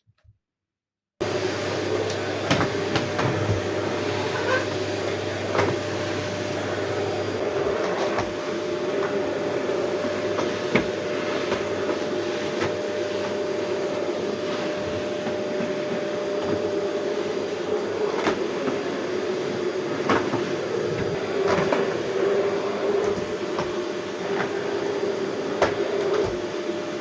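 A household appliance motor switches on about a second in and runs steadily with a low hum, with occasional light clicks and knocks over it.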